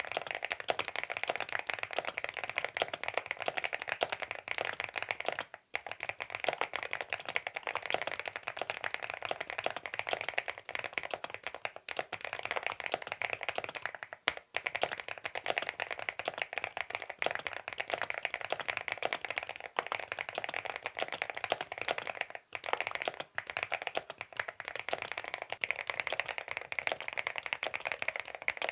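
Fast continuous typing on an aluminium-cased mechanical keyboard: a dense patter of key clicks, pausing briefly three times.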